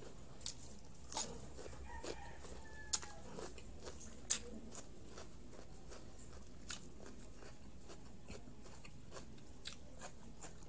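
Crisp raw cucumber being bitten and chewed close to the microphone: a series of sharp crunches, the loudest about three and four seconds in, then sparser, quieter chewing.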